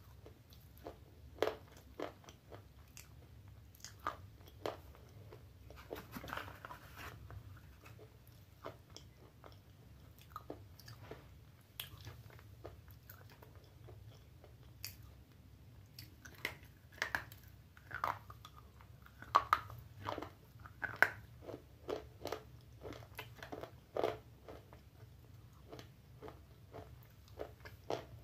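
Close-up mouth sounds of a person biting off and chewing a white slate pencil: dry, gritty crunches at irregular intervals, coming thicker and louder in the second half.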